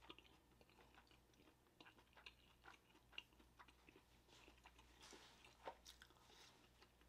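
Faint chewing and mouth sounds of someone eating steamed dumplings in sauce, with scattered small soft clicks. A slightly louder click comes about five and a half seconds in, as the spoon goes to the mouth.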